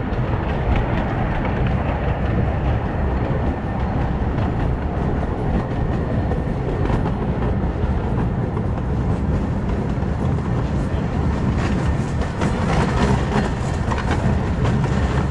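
Small 15-inch-gauge steam train running along the track: a steady rumble of the moving cars with a continuous clatter of wheels clicking over rail joints.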